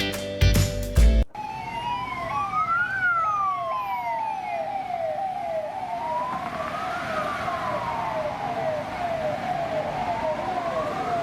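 Ambulance siren: a rapid repeating downward yelp, about two or three a second, layered over a slower wail that rises and falls three times. It starts about a second in, as the music stops.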